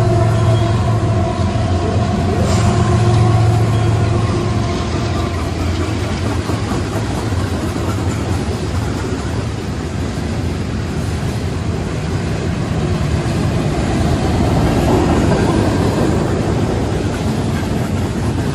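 Florida East Coast Railway freight train passing close by. The trailing locomotive's engine hums for the first few seconds, then a long string of freight cars rolls past with a steady rumble of wheels on rail.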